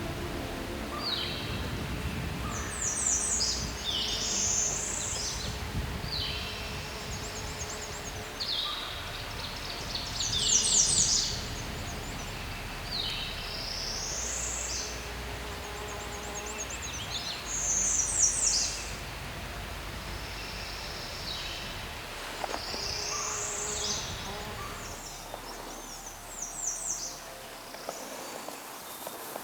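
Songbirds singing: short whistled and trilled phrases repeating every few seconds, one after another, over faint outdoor background noise.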